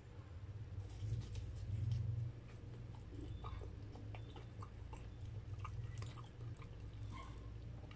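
Close-up chewing of a breaded corn dog: wet mouth sounds with a few sharp clicks, over a steady low hum.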